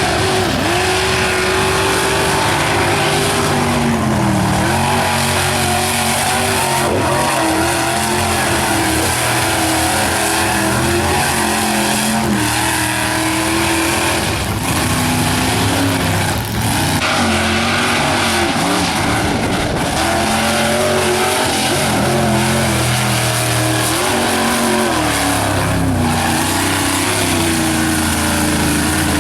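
Mega truck engines revving hard in a mud pit, the pitch climbing and dropping again and again as the throttle is worked.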